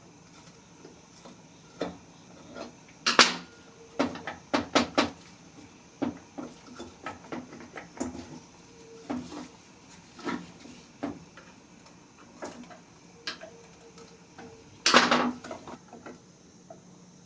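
Small metal engine parts and hand tools clinking and knocking on a workbench while a small Honda four-stroke engine is taken apart. Light taps are scattered throughout, with two louder clatters, about three seconds in and near the end.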